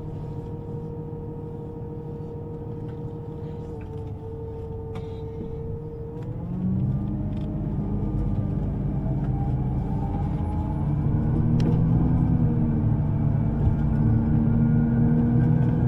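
Electric underground train running, with a steady motor tone; about six seconds in the tones change and rise in pitch as the train picks up speed, growing louder.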